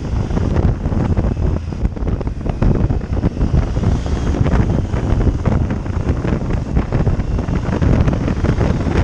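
Loud wind buffeting on the microphone of a motorcycle on the move, with the motorcycle's running and road noise mixed in beneath.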